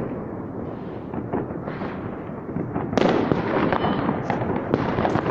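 Many fireworks and firecrackers going off at once in a dense, unbroken run of bangs and pops; about three seconds in it suddenly grows louder and sharper.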